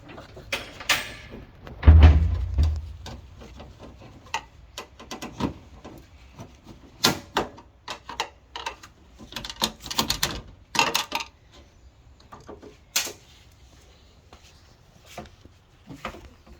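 Irregular knocks and clatter of things being handled and bumped, with a heavy thump about two seconds in and a quick run of clatter around ten seconds.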